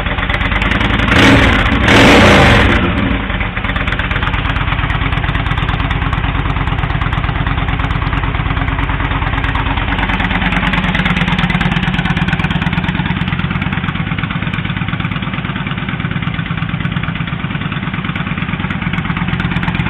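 Yamaha Midnight Star 1300's V-twin engine through a Speedstar Competition Long Drag aftermarket exhaust: two short throttle blips about one and two seconds in, then a steady idle.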